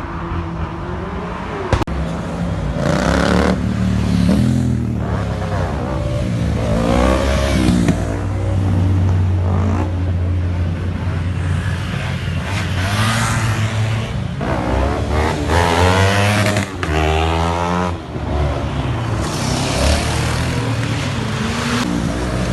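Car engines revving repeatedly, their pitch rising and falling again and again, over the steady low drone of idling engines.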